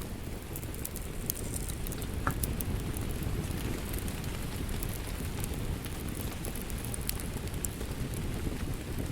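Steady rain mixed with a crackling wood fire: a constant low rush of rain under frequent small, irregular crackles and pops from the burning logs.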